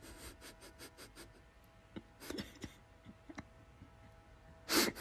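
Dog gnawing on a painted wooden stair spindle: a run of quick light clicks of teeth on wood, about five a second, then a scraping cluster of clicks, with a louder short scrape near the end.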